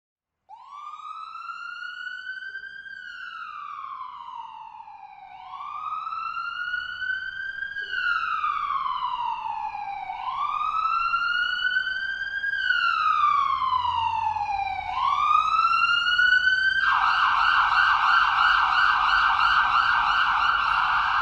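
Emergency-vehicle siren wailing in four slow cycles, each rising quickly and falling slowly in pitch, then switching to a rapid yelp about 17 seconds in.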